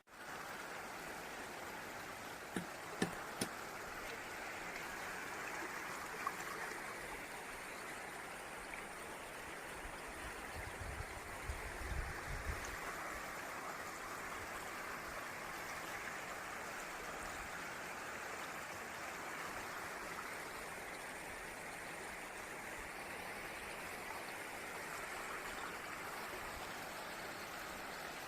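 Water rushing steadily over a waterfall, with a few sharp knocks about three seconds in and a brief low rumble near the middle.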